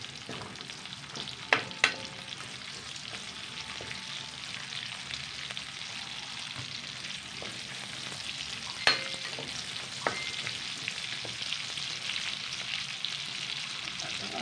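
Garlic and sliced red onion sizzling steadily in hot oil in a metal wok while being stirred with a metal spatula. The spatula clinks against the pan twice about two seconds in, then again around nine and ten seconds.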